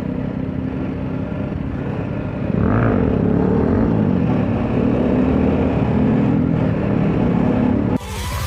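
Motorcycle engine running on the move, its pitch rising and falling with the revs; it gets louder about two and a half seconds in.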